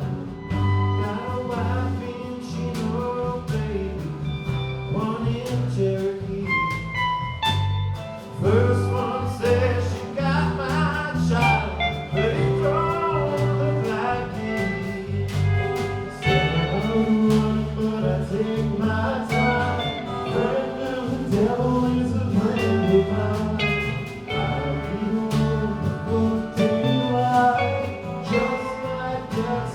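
Live band playing a song: drums keeping a steady beat under bass and other instruments, with singing.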